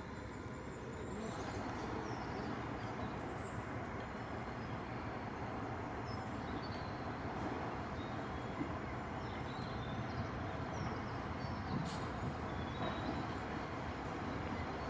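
Heritage-railway diesel locomotive running, a steady low engine noise that grows a little louder about a second in.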